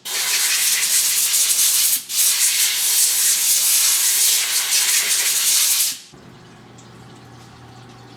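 Compressed-air blow gun hissing in a long blast to clear chips off the freshly machined brass part in the CNC mill, with a brief break about two seconds in. It cuts off suddenly near the end, leaving the machine's low steady hum.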